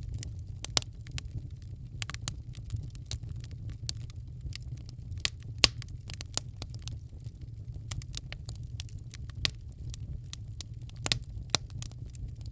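Wood fire crackling in a fireplace: irregular sharp pops and snaps, the loudest about halfway through, over a steady low rumble.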